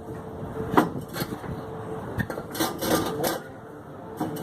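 Scattered metal knocks and clanks of the old stock exhaust pipe and muffler being twisted and worked loose under the car, with a few sharp hits spread through the stretch.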